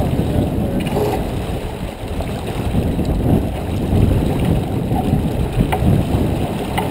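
A steady, fluctuating low rush of wind and water aboard a J24 sailboat under way, with a few light clicks.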